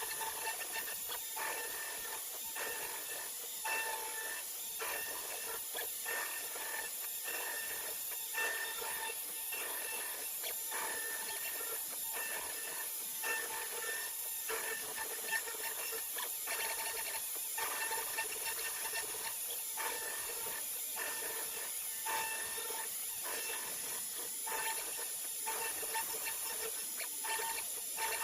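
Router spindle on a Piranha FX CNC running steadily with a high whine while a 30-degree V-bit carves acacia wood, the tone dipping briefly every second or two as the cut changes.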